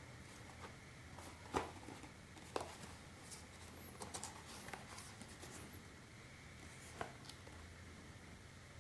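A few light clicks and knocks from items being handled and packaging being moved, over a faint low hum. The sharpest knock comes about a second and a half in, with a small cluster of clicks around four to five seconds and one more near seven seconds.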